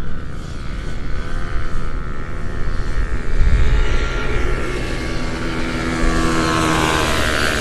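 A passing motor vehicle: a low rumble that peaks about halfway, then a steady engine hum.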